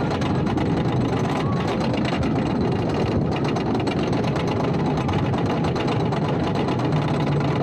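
Wooden roller coaster train running along its track: a steady, dense rattle and clatter over a low rumble.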